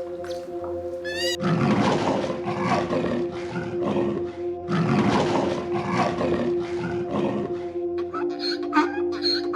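A large wild animal roaring twice, each roar about three seconds long and rough, over steady background music.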